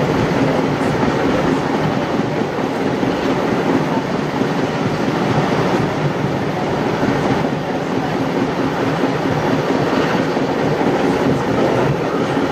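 Passenger train heard from on board a carriage, running steadily with wheels on rails, a continuous even noise with a steady low hum underneath.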